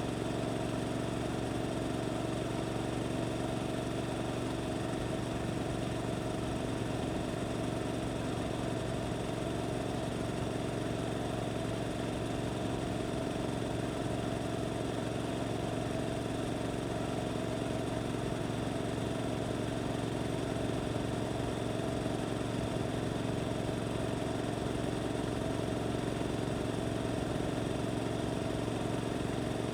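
Suzuki GSX-8S's parallel-twin engine running through an Arrows aftermarket exhaust, holding a steady pitch with no revving.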